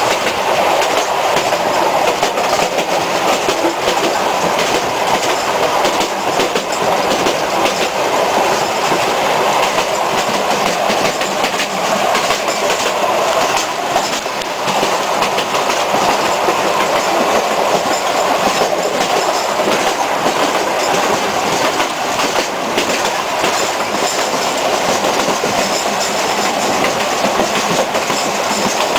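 Sóller Railway's narrow-gauge electric train running steadily along the track: the noise of its wheels on the rails, with scattered clicks of clickety-clack, heard through an open carriage window.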